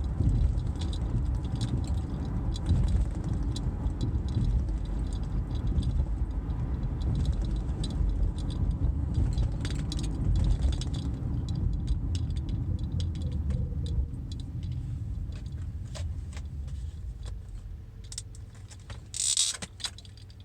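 Car cabin road noise while driving: a low steady rumble with small rattles and clicks. It eases off after about fourteen seconds, and a short hissy rustle comes near the end.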